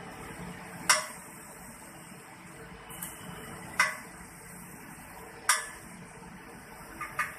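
Metal clinking: about five sharp, single knocks a second or two apart, the last two in quick succession, over a steady hiss.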